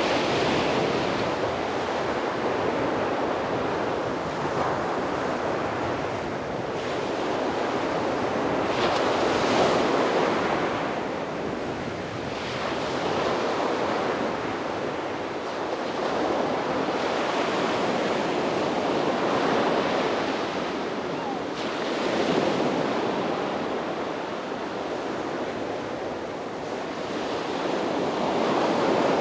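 Sea waves breaking and washing onto a beach, the surf swelling and easing every few seconds, with some wind on the microphone.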